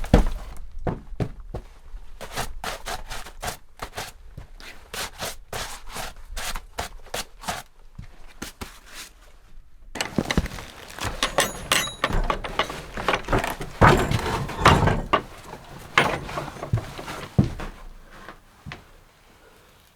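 A run of sharp knocks and thuds, about three a second for several seconds, then a busier stretch of clattering knocks with a few short high squeaks, dying away just before the end.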